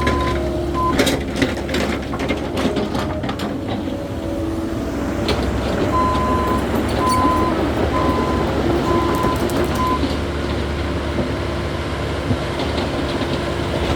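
Caterpillar 308E2 mini excavator's diesel engine running steadily as it works, with sharp clanks in the first few seconds and a warning alarm beeping about five times, roughly once a second, in the middle.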